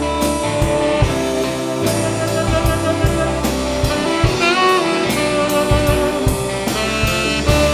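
Rock band playing an instrumental passage between vocal lines: drum kit keeping a steady beat under bass and electric guitars, with a lead line of bending notes about four seconds in.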